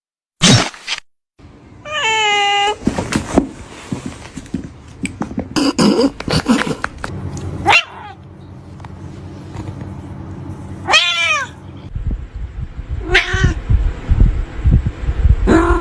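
A domestic cat meowing in about four separate calls: a long wavering one about two seconds in, and shorter falling ones later on. A few short knocks fall between them.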